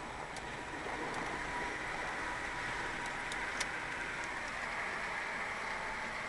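Steady outdoor background noise with a faint, even high-pitched hum and a few light clicks, while the train has not yet arrived.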